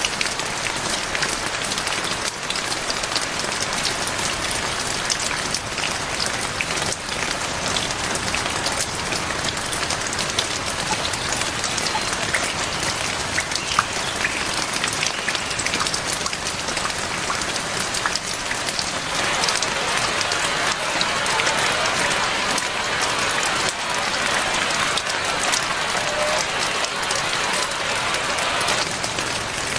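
Heavy rain falling steadily, with dense pattering of drops on surfaces.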